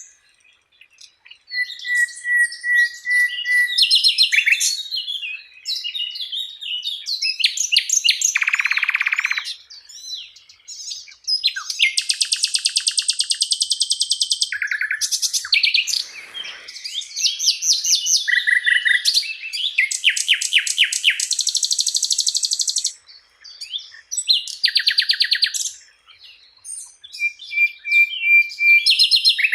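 Songbird song in a varied, fast sequence of rapid trills, buzzy rattles, high chirps and short whistles, phrase after phrase with brief pauses. It is a masteran recording, the kind played to tutor competition songbirds.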